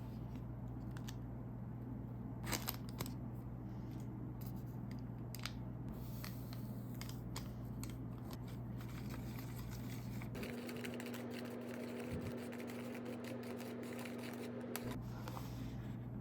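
Light clicks, snips and scrapes of plastic packaging and small utensils being handled while a DIY candy kit is made, over a steady low hum. From about ten seconds in, a dense run of fine rapid scraping clicks lasts about four seconds.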